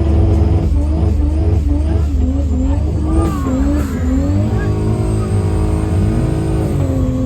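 Car engine revving up and down in quick repeated blips over a steady low rumble, then settling to a steady note near the end.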